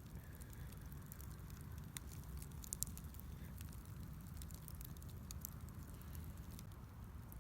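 Wood fire crackling in a small steel fire pit, with scattered sharp pops and one louder pop nearly three seconds in.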